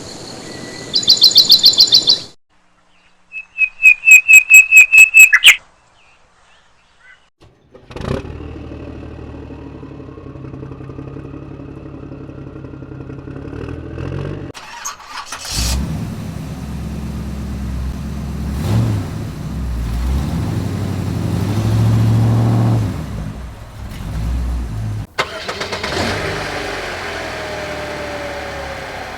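Brief bursts of high chirping, pulsing tones. Then, about eight seconds in, a vehicle engine starts and runs steadily, getting louder and more uneven from about fifteen seconds, with an abrupt change near twenty-five seconds.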